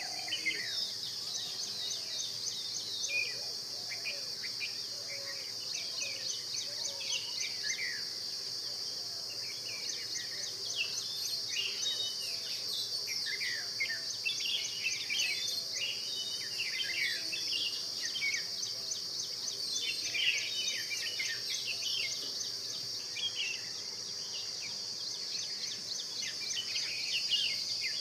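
Many small birds calling and chirping over a steady, high-pitched insect drone, with groups of fast insect ticking coming and going.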